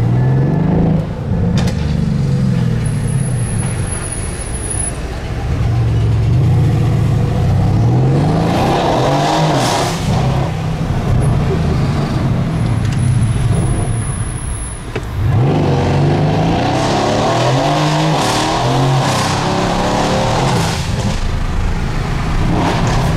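Mercedes-AMG C63 S W205 twin-turbo 4.0-litre V8, RennTech-tuned to 709 hp, under hard acceleration. The revs climb in several pulls, with brief drops at the gear changes about a second in and around fourteen seconds.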